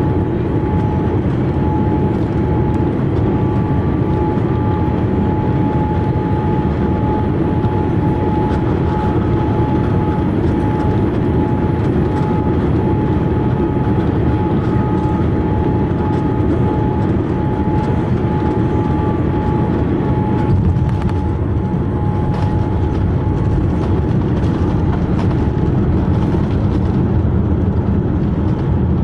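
Cabin noise inside a Boeing 787-8 on its landing approach: a steady roar of engines and airflow. Over it sits a thin steady whine that stops about two-thirds of the way through, after which there are a few faint clicks and rattles.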